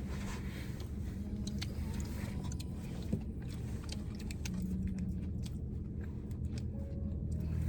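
Car engine idling, heard as a steady low hum inside the cabin, with scattered light clicks and rustles of people eating.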